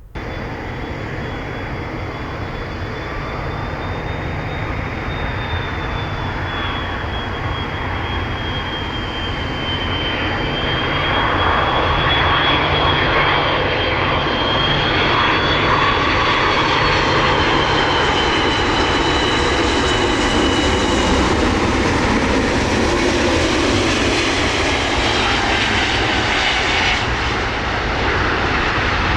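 Jet airliner's engines: a high, thin whine over a broad rumbling roar that grows louder over the first ten seconds or so, then holds steady.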